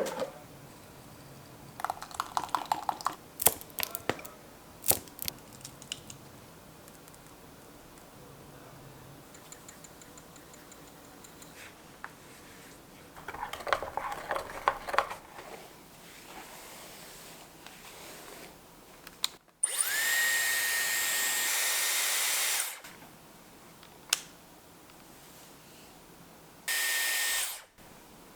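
A small electric motor runs in two bursts: about three seconds, then a shorter burst of under a second, each with a steady high whine. Before it come scattered clicks and clattering.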